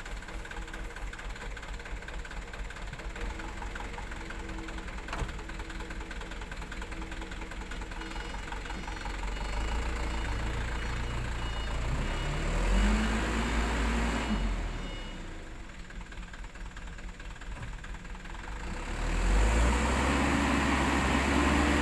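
Mitsubishi Super HDX dump truck's diesel engine idling with a knocking beat, then revved up under load about nine seconds in, its pitch rising until it drops back suddenly near fourteen seconds, and revved hard again near the end as the stuck truck tries to back out of the mud.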